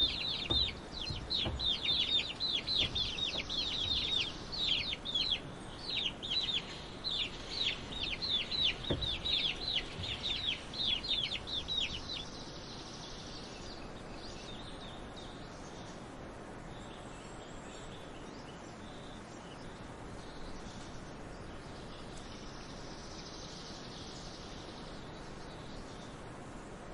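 Baby chicks peeping in a rapid stream of short, falling cheeps. The peeping stops about twelve seconds in, leaving only a faint steady background.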